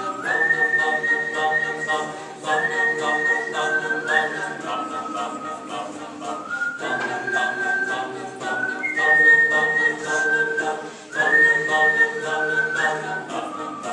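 A recorded song's whistled melody, clear and high, stepping between notes over sustained instrumental chords, played back through a home surround-sound speaker system.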